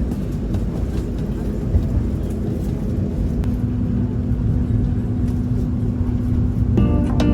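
Passenger train running along the tracks: a steady low rumble with a steady hum. Music comes in near the end.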